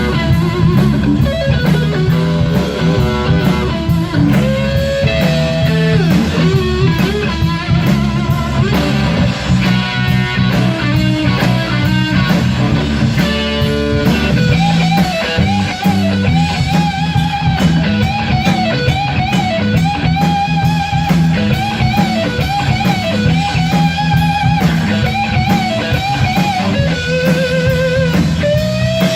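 1960 Gibson Les Paul Standard electric guitar playing a rock lead over bass and drums: quick runs with bent notes at first, then from about halfway long held notes with wide vibrato.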